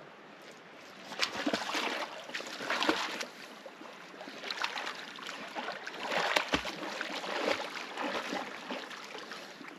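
Shallow hot spring water sloshing and splashing in irregular bursts as it is disturbed, with a single knock about six and a half seconds in.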